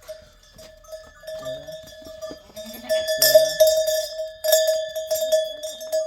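Livestock bells clanking and ringing on a flock of small stock as the animals move. The clatter grows loudest about halfway through, in two bursts.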